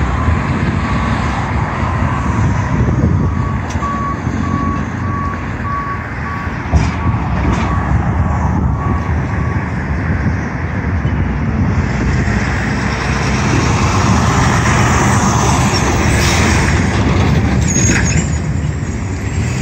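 Freight train rolling through a grade crossing, with a steady low rumble. A crossing's electronic bell rings in even, repeating strokes for about the first half and then stops. A hiss of wheels on rail grows in the second half.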